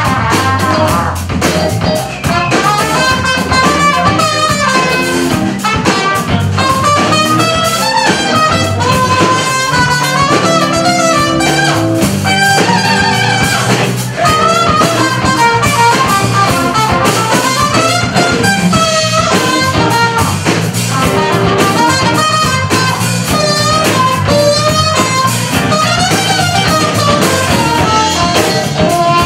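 Live blues band playing an instrumental break, with a bending lead melody over bass and drums and no singing.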